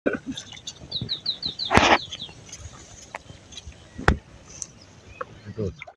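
A bird calling a quick run of about seven short, falling chirps, about five a second. A loud rustle comes in the middle of the chirps, and a sharp knock follows a couple of seconds later.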